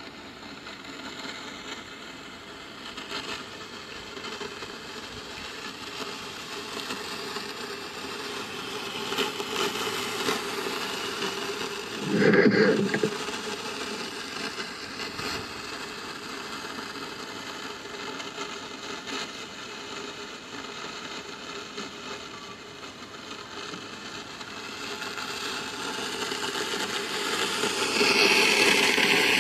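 Underground sound picked up by a microphone lowered about 18 m down a borehole: a steady rushing noise with faint knocks and scrapes, one louder sound of about a second roughly twelve seconds in, and the noise swelling near the end. The recordists take it for tunnel-digging work below ground; the Ministry of Defense calls it underground wind.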